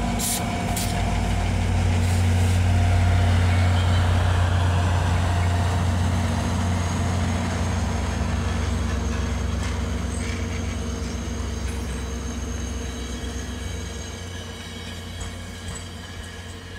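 Diesel locomotive engine droning steadily under power as the passenger train departs, loudest a few seconds in and then slowly fading as the locomotive draws away. A few sharp clicks come in the first couple of seconds, and the cars rumble along the rails throughout.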